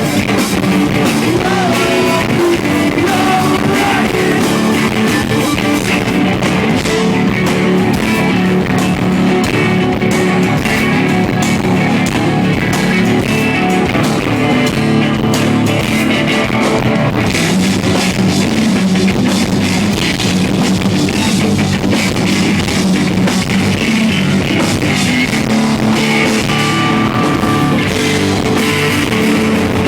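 Live rock band playing loud, continuous distorted electric guitars and drum kit, with some vocals, as recorded from the audience on a small handheld device.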